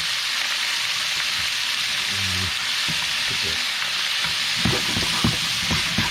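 Razor clams stir-frying in oyster sauce and garlic in a hot pan, a steady sizzle, with a cooking utensil knocking against the pan several times in the second half.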